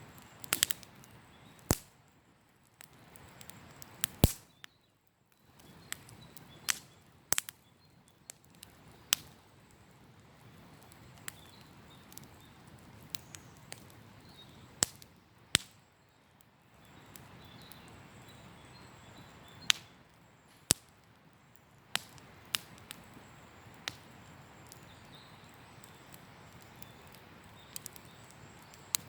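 Wood campfire crackling, with sharp pops and snaps at irregular intervals over a faint steady hiss.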